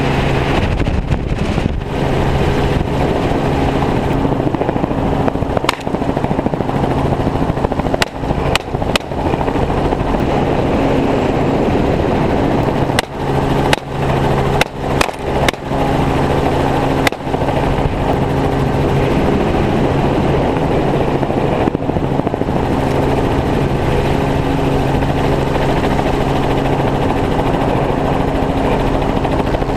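Helicopter in flight: steady engine and rotor drone, with a few brief dips in level around the middle.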